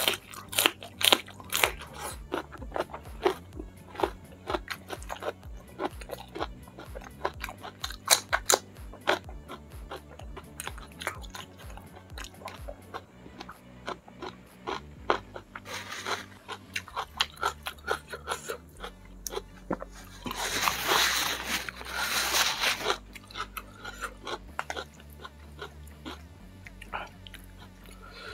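Close-miked crunching and chewing of raw green lalapan vegetable, many sharp crisp bites at first, then sparser chewing. About twenty seconds in, a louder rushing noise lasts about three seconds.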